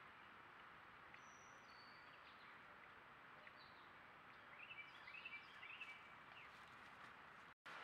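Faint woodland ambience: a steady background hiss with a few short, thin bird chirps and whistles, a small cluster of them about five seconds in. The sound drops out for an instant near the end.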